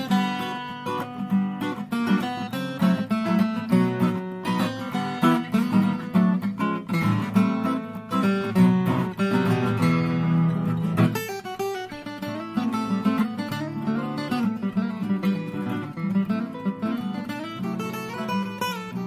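Acoustic guitar music, plucked and strummed chords.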